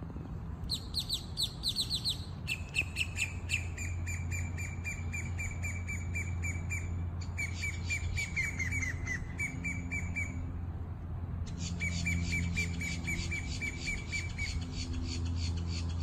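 A songbird singing long runs of rapid, repeated chirping notes, about five a second, in three phrases after a short higher burst at the start. A steady low hum runs underneath.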